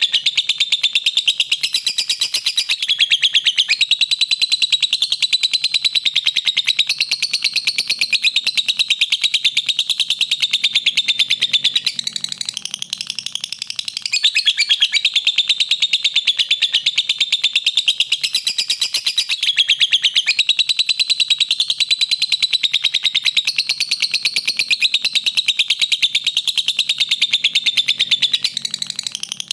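Lovebird singing an unbroken stream of rapid, high chirps and trills, with a brief lull about halfway through and another near the end.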